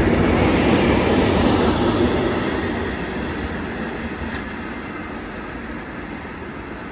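Intermodal freight train rolling past, its wagon wheels running over the rails. The noise fades steadily from a couple of seconds in as the end of the train goes by and moves away.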